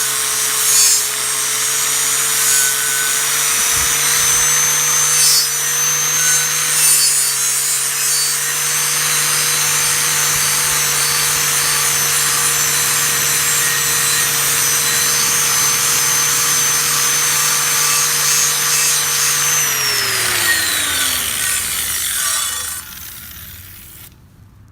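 Angle grinder with a wire wheel running steadily against a rusty steel machete blade, scrubbing off rust and scale. About twenty seconds in it is switched off and the motor's pitch falls as the wheel spins down to a stop.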